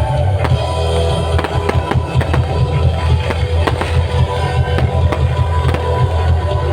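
Fireworks bangs and crackles going off repeatedly over loud music with a heavy bass beat.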